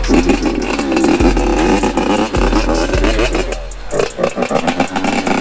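Yamaha YZ85's small two-stroke single-cylinder engine running and being revved over and over, its pitch rising and falling with each twist of the throttle.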